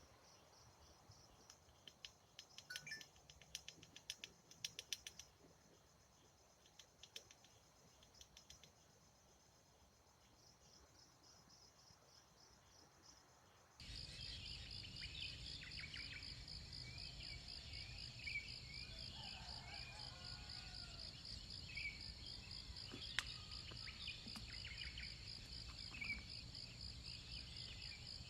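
Crickets and other insects calling: faint at first, with bursts of fast clicking trills. About halfway through, the sound cuts to a louder, dense insect chorus trilling steadily, with scattered short bird-like chirps and a low rumble underneath.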